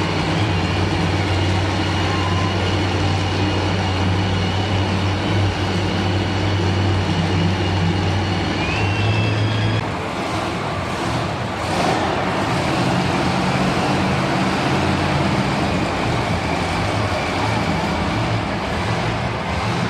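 Monster truck engine running loud and steady. Its low note changes about ten seconds in, and a brief burst of noise follows a couple of seconds later.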